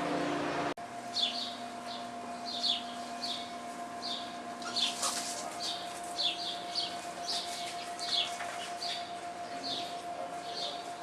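Sparrows chirping repeatedly, short high chirps two or three a second. A rushing background noise cuts off suddenly under a second in.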